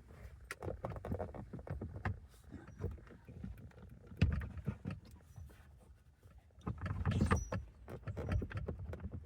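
Dashboard trim and parts of a 2012 Honda Civic being handled and worked loose by hand: irregular clicks, knocks and rattles of hard plastic, with the loudest knocks about four seconds in and around seven seconds.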